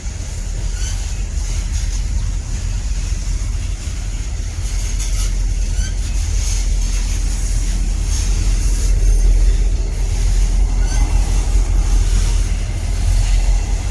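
Low, steady rumble of a freight train moving through, growing a little louder about two-thirds of the way in.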